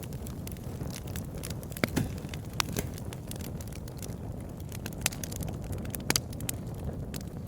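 Campfire burning: a steady low rumble of flames with irregular sharp crackles and pops from the burning wood, a few louder pops standing out.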